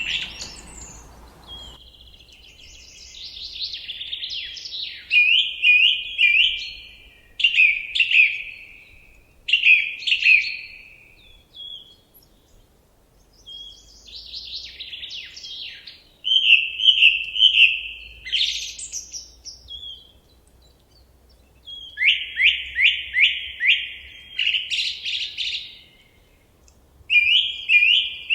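A songbird singing in short, varied phrases of whistles and trills, separated by pauses of a second or two. About three-quarters of the way through comes a quick run of about five falling notes.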